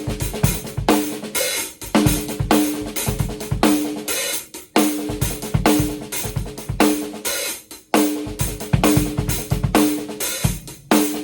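A drum kit played as a steady groove: kick drum, hi-hat and cymbals, and a fat-sounding snare whose strokes ring with a low tone, coming about every half second. The groove breaks off briefly twice.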